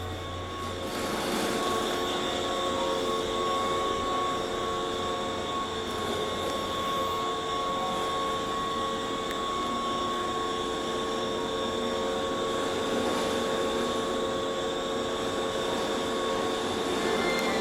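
Keihan 5000 series electric train standing at an underground platform, its equipment running with a steady hum: a few held tones over a constant noise.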